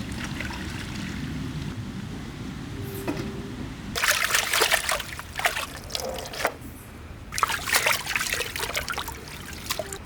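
Water trickling and splashing in two bursts, starting about four and about seven and a half seconds in, over a low steady background rumble.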